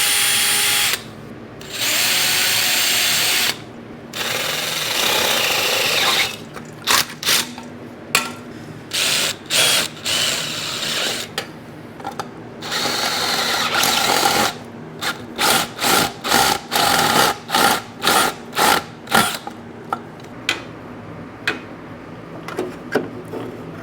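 Power drill boring a hole through a VW Bus engine shroud: three longer runs, then a quick series of short trigger pulses.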